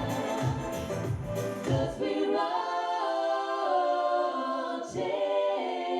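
Female vocal group singing in close harmony. For the first two seconds or so a low rhythmic beat pulses underneath. It then drops out, leaving the voices alone a cappella, holding chords.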